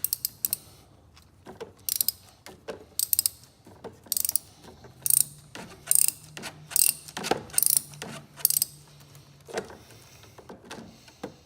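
Socket ratchet clicking in short bursts, about once a second, as it is swung back and forth on long extensions to loosen a spark plug, with one duller knock a little past the middle.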